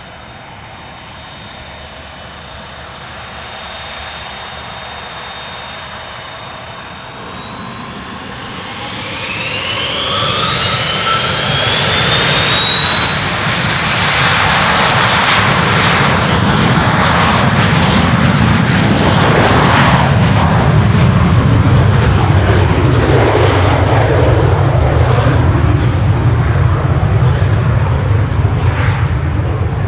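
Aircraft turbine engines spooling up to high power: a whine rises in pitch over several seconds and the sound swells into a loud, steady roar with a deep rumble.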